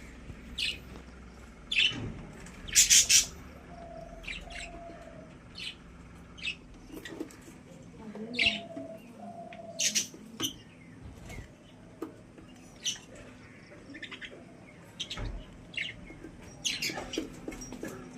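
Budgerigars chirping in short, scattered calls, a pair of louder chirps about three seconds in, with a few softer drawn-out notes between.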